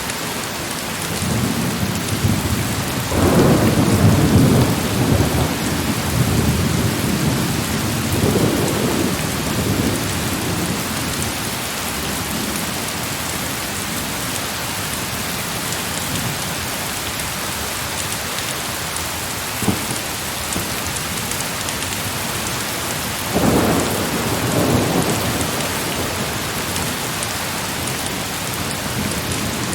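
Steady heavy rain with two rolls of thunder: a long rumble building about two seconds in and dying away by about ten seconds, and a shorter one near the end. A single sharp click midway.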